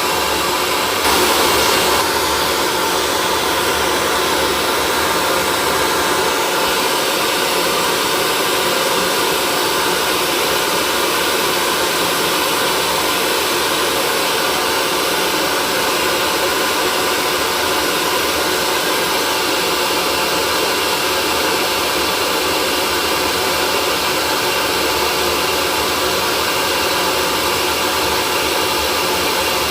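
Electric hair dryer running steadily: a constant rushing whoosh of air with a steady motor whine. It swells slightly for about a second near the start.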